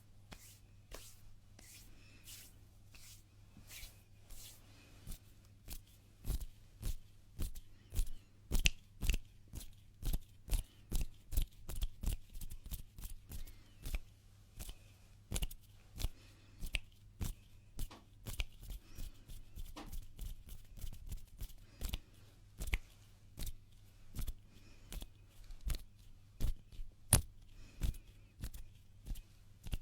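Close-miked ASMR hand sounds: bare hands rubbing and brushing together in quick, crisp strokes, about two to three a second. The strokes are soft at first and grow louder about six seconds in.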